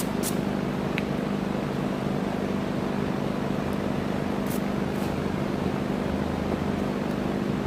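Electric drill running steadily under load, boring through the steel rear trunnion of an AK-pattern pistol to fit a brace bolt. An even motor hum, with a couple of faint clicks at the start.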